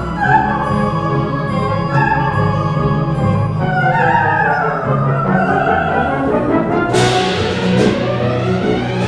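Orchestra playing with a wordless coloratura soprano line. About seven seconds in, a long rising glide begins over the orchestra.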